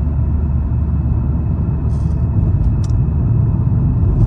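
A car driving along the road: a steady low rumble of engine and road noise, with a few faint ticks about two and three seconds in.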